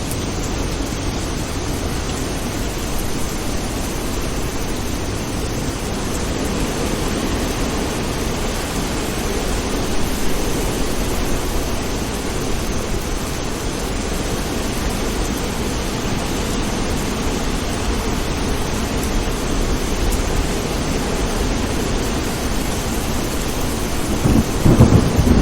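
Thunderstorm: steady heavy rain with a continuous low thunder rumble, and a louder clap of thunder near the end.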